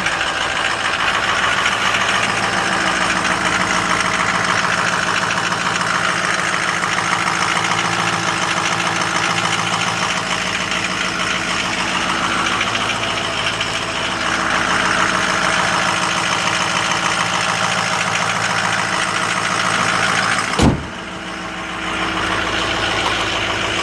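Ford 6.0 Power Stroke V8 turbo-diesel in a 2007 F-250 idling steadily while it warms up from a cold start, running smoothly for how cold it is. A single thump comes near the end, and the engine sound dips briefly after it.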